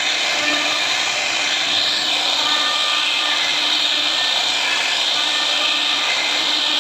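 CNC router running and cutting wood: a steady high hiss with a few faint held tones.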